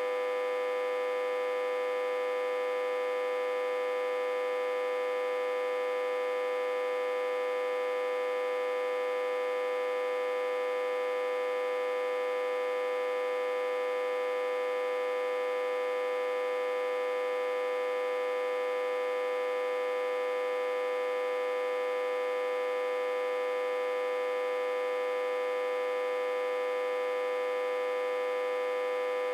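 Autotransformer humming steadily, reverse-connected to a step-down transformer with about 60–80 V at its input. It gives one strong, steady tone with many fainter overtones above it, unchanging throughout.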